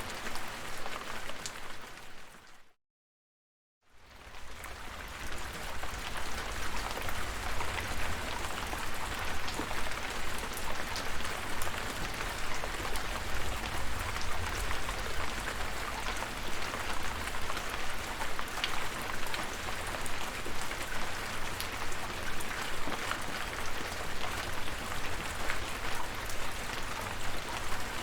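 Steady rain with scattered distinct drops. It fades out to silence about two and a half seconds in, stays silent for about a second, then fades back in with a deeper low rumble underneath.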